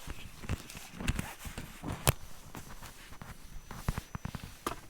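A series of irregular clicks and knocks, like objects being handled or footsteps on a hard floor, with the sharpest knock about two seconds in.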